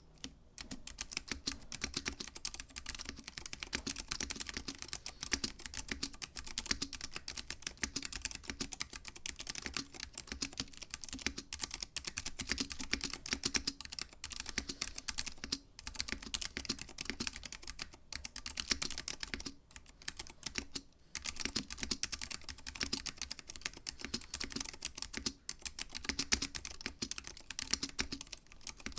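Continuous fast typing on a mechanical keyboard with Alps SKCM Orange switches mounted on an FR4 plate: a dense run of crisp key clicks, broken by a few short pauses.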